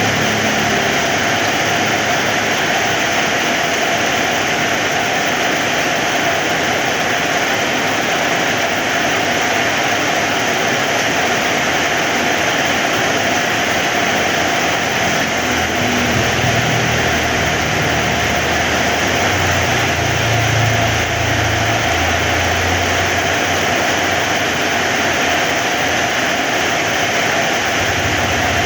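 Heavy rain falling steadily, a dense even hiss of drops. A low rumble swells under it in the second half.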